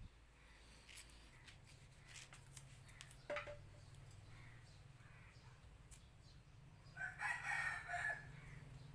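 A bird calling once for about a second near the end, over a low steady hum with scattered clicks and taps.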